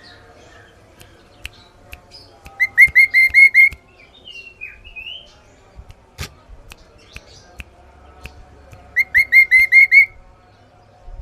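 Kaso-kaso bird singing clear, loud whistled song: two phrases of about six quick repeated notes each, one about two and a half seconds in and one near nine seconds. Fainter chirps and a few sharp clicks fall between them.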